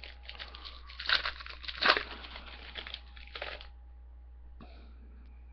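Plastic wrapper of a trading-card pack crinkling and tearing as it is opened, for about three and a half seconds. The loudest crackles come about one and two seconds in, then it stops.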